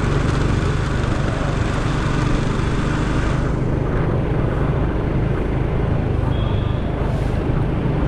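Motorcycle engine droning steadily under the rush of wind on the mic while riding; the higher hiss eases about three and a half seconds in.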